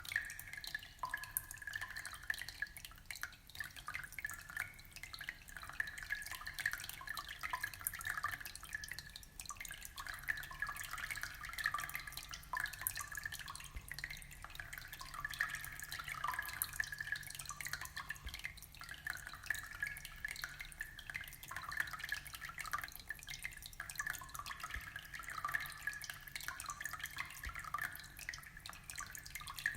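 Aquarium water trickling and dripping: a steady, dense patter of small drops and splashes.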